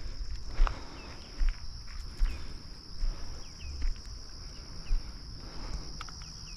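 Walking footsteps, a dull thud about every 0.8 seconds, over a steady high trill of crickets, with a few faint short chirps.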